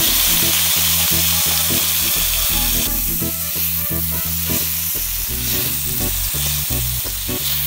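Chopped raw green tomatoes sizzling loudly in a hot kadai as they hit the pan and are stirred with a slotted spatula. The sizzle eases a little about three seconds in.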